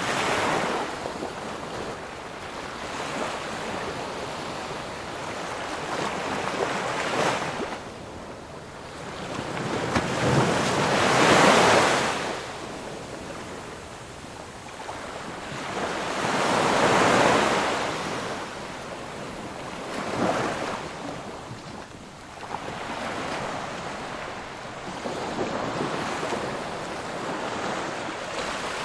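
Ocean waves breaking and washing in, one surge of rushing surf every few seconds, with the biggest waves about a third of the way through and near the middle.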